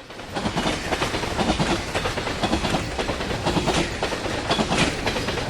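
A train rolling past, its wheels clicking rapidly over the rail joints above a steady rumble.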